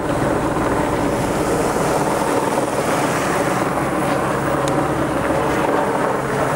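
Helicopter flying overhead: a loud, steady drone of rotor and engine noise.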